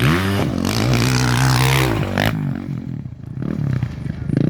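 Off-road race motorcycle passing close at full throttle: the engine's pitch climbs, holds high for about two seconds, then drops away as it goes by.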